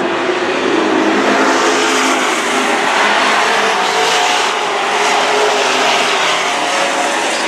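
Super Truck race engines running at speed on a dirt oval: a loud, steady din of several engines whose pitch rises and falls as the trucks lap.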